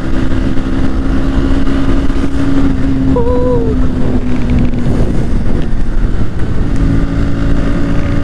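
Motorcycle engine running at steady highway cruising speed, with wind rumble on the helmet-mounted microphone; the engine note drops a little and picks up again as the rider leans through a bend. A brief pitched tone, about half a second long, sounds about three seconds in.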